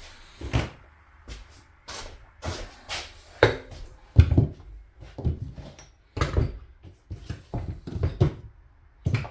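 Irregular clicks and knocks of outboard motor parts and hand tools being handled and set down during reassembly, about a dozen in a few seconds.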